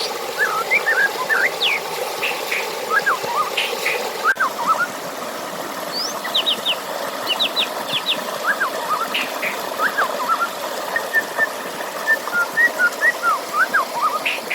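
Several songbirds chirping in quick, short, repeated calls over a steady rush of flowing water.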